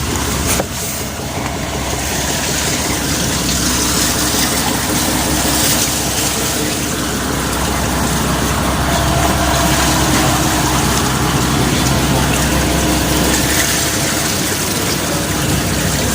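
Fishing boat's engine running steadily at sea, with wind and water noise over it.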